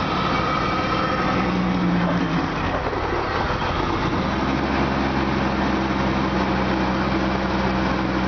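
1998 Jeep Cherokee 4.0-litre straight-six running moments after a cold start at about −39 °C, hesitating and uneven for the first few seconds, then settling into a steadier idle about four seconds in.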